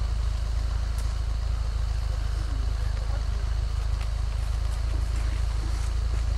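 Vehicle engine running at a steady low rumble, with no revving.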